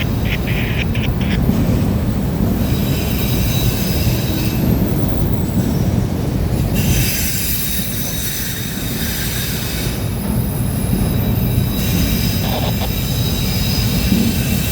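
Freight train cars rolling past with a steady low rumble, the wheels squealing on the rails in a high, thin tone that comes and goes for several seconds at a time.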